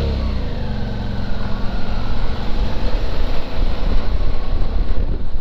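Suzuki V-Strom 650's V-twin engine running as the motorcycle rides, its note falling in pitch over the first couple of seconds, then a rushing noise with a low rumble growing louder.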